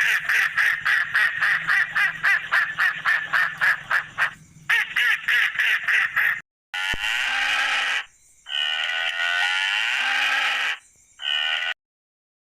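Animal calls: a fast run of short, evenly repeated calls, about three a second, for some six seconds, then after a sudden break two longer drawn-out calls.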